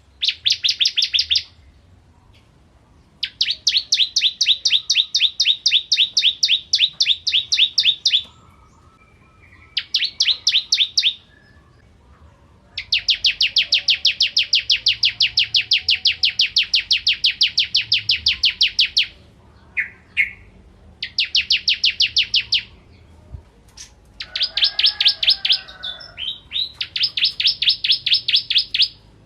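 Bar-winged prinia (ciblek kristal) singing: bouts of rapid, evenly repeated high notes, some lasting several seconds, separated by short pauses.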